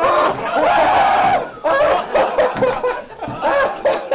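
People laughing and snickering in short, broken bursts.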